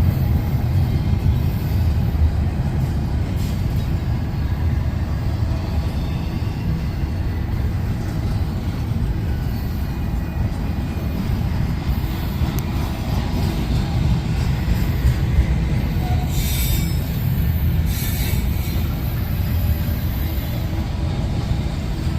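Railroad cars of a freight train rolling past, a steady heavy rumble of wheels on rail, with a couple of brief high wheel squeals about three-quarters of the way through.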